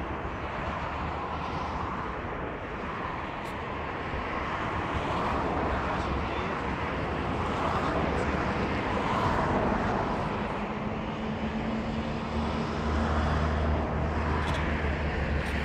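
Car driving: steady road and engine noise, with a low engine hum that grows stronger about ten seconds in.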